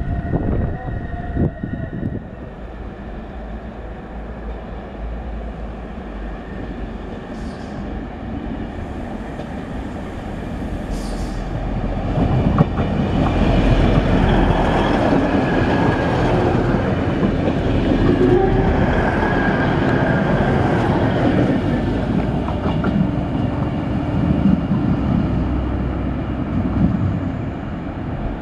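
DB Class 612 diesel multiple unit running along the platform close by, its engines and wheels on the rails growing louder from about a third of the way in and staying loud through the middle, with some clickety-clack. Before it, a more distant train rumbles more quietly, with a faint steady squeal that dies away in the first couple of seconds.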